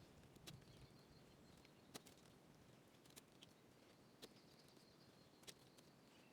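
Near silence with a handful of faint, sharp clicks spaced irregularly about a second apart.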